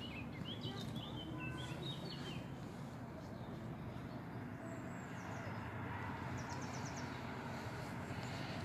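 Small songbirds chirping in short bursts, several calls in the first two seconds and another quick series near the end, over a steady low outdoor background rumble.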